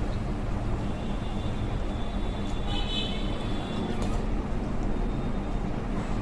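Steady low background rumble, with a faint high tone about three seconds in.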